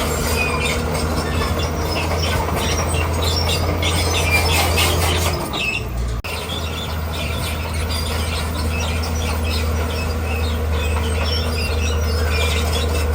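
Komatsu D41P crawler bulldozer's diesel engine running steadily under load, with the high squeaking and clatter of its steel tracks as it pushes rock. The engine note changes briefly about six seconds in.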